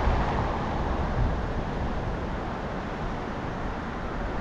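Steady wind rush on the microphone while riding a bicycle, a low, even rumble with no distinct events.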